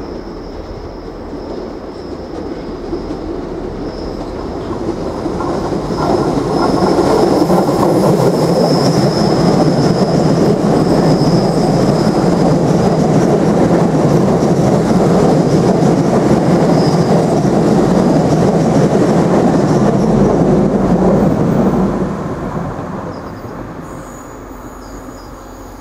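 Irish Rail 29000 class diesel multiple unit passing close by. The running noise of its engines and wheels on the rails builds as it approaches out of the tunnel, is loud for about sixteen seconds, then fades away as it goes. A thin high squeal sounds over the first half of the pass.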